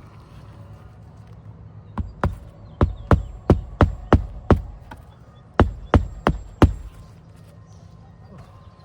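Hammer nailing shingles back down on a roof: about a dozen sharp strikes, roughly three a second, in two runs with a short pause between.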